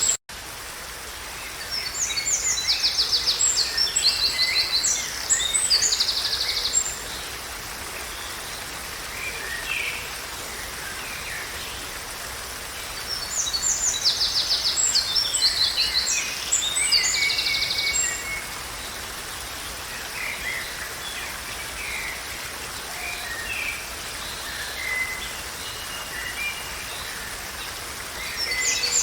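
Songbirds singing in two bouts of quick, high trilled phrases, with scattered fainter calls between, over a steady background hiss.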